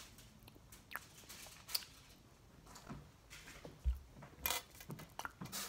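Faint mouth sounds of chewing a sticky gummy candy, with scattered small clicks, a low thump nearly four seconds in and a cluster of clicks near the end.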